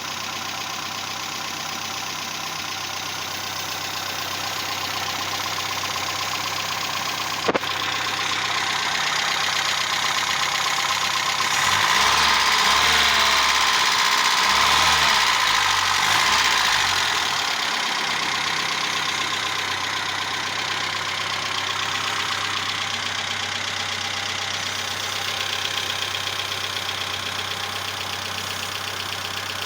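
Peugeot 305's 1.5-litre XR5A four-cylinder petrol engine idling steadily. Between about 12 and 17 seconds in it is revved up and let back down a few times. There is one sharp click about a third of the way through. The engine has been rebuilt on a replacement bare block.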